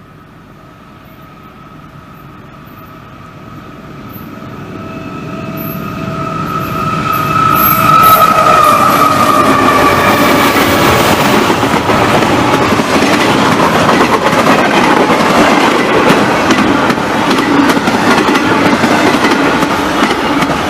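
Diesel-hauled double-stack intermodal freight train approaching and passing at speed. The sound grows steadily louder, carrying a high whine that drops slightly in pitch as the locomotive goes by. Then comes the loud rumble and clatter of the well cars rolling past, with rapid wheel clicks over the rail joints.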